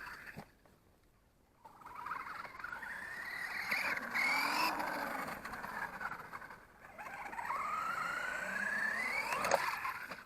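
Electric motor of a Reely RC monster truck whining under throttle, its pitch rising as the truck speeds up. After a short pause about a second in, it runs in two long pulls, the second climbing highest before it cuts off near the end.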